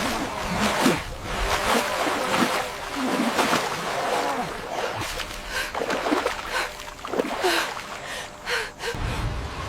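People gasping and crying out over splashing water, in a string of short breathy vocal sounds.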